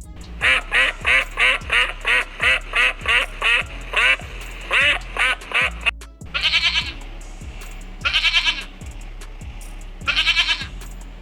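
Ducks quacking: a rapid run of about fifteen quacks in the first half, then three short bursts of quacking, over steady background music.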